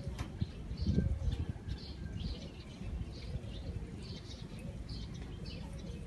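Small birds chirping again and again over a steady low rumble of city background noise, which swells briefly about a second in.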